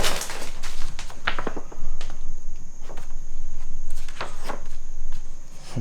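Footsteps on a debris-strewn floor: a few scattered crunches and scuffs.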